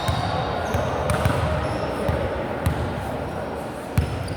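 Volleyball game in a gymnasium: several sharp thuds of the ball on hands and court floor, the sharpest about four seconds in, over a steady hall background of crowd voices.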